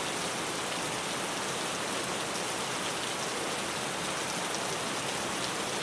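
Steady rain on a tin roof: an even hiss with scattered drops ticking on the metal.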